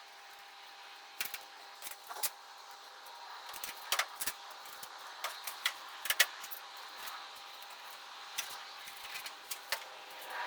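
Irregular light clicks and taps from handling the plastic canards and tape against the bumper while positioning them, over a faint steady hum.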